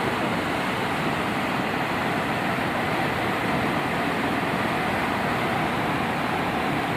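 Steady rushing of fast-flowing floodwater, an even roar with no change in level.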